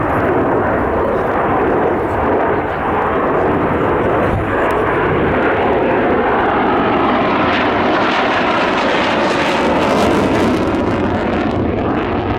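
Fixed-wing aircraft flying a low pass, loud, steady engine noise; it grows brighter and harsher about seven seconds in, peaks around ten seconds and then starts to fade.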